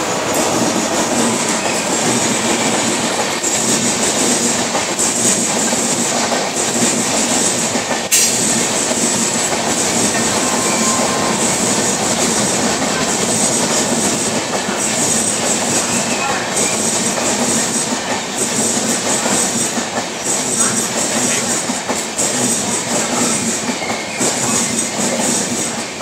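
Express passenger train behind a WAP-7 electric locomotive rolling in along the platform: a steady, loud rumble and rattle of the coaches' wheels on the rails, with one sharp knock about eight seconds in.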